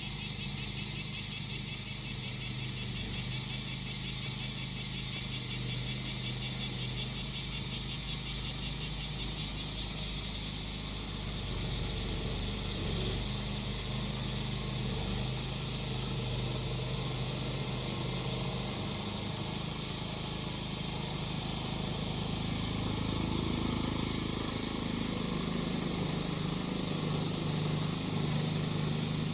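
Cicadas singing in a fast pulsing chorus, about four pulses a second, over the steady running of a grass-cutting machine's small engine. The cicada pulsing dies away about ten seconds in, leaving the engine, whose pitch rises somewhat later on.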